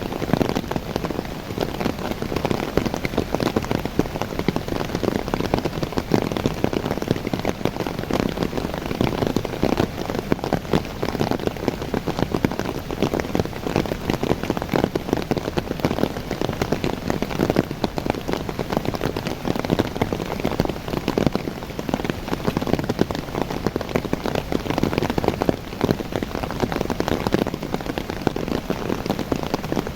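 Steady rain falling on young coffee plants, a dense patter of drops on the leaves.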